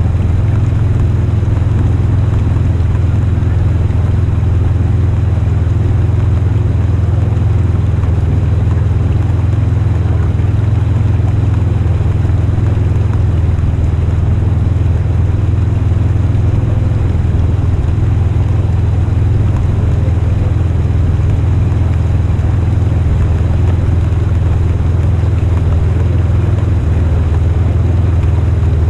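Polaris RZR Highlifter 1000 side-by-side's engine running at a steady speed, a loud, even low drone that does not rise or fall.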